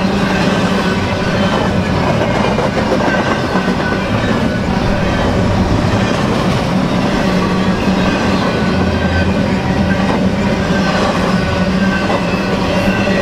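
BNSF freight train rolling past: a steady rumble of steel wheels on rail with a clickety-clack over the joints and a faint high wheel squeal.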